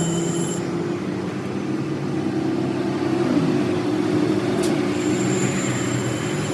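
Steady low mechanical hum of a running machine, even in level throughout.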